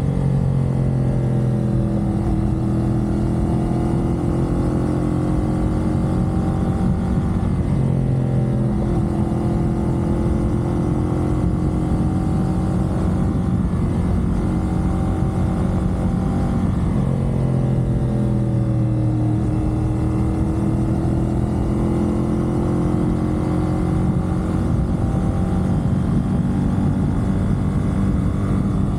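CFMoto 450SR parallel-twin engine running at expressway speed under a steady rush of wind and tyre noise, its pitch sliding up and down a few times as the throttle is rolled on and off.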